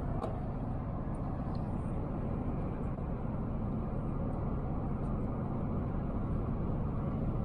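Truck driving: a steady low rumble of engine and road noise.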